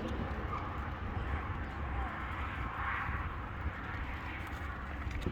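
Button quail moving about and pecking, with a few faint, short peeps over a steady low background hum.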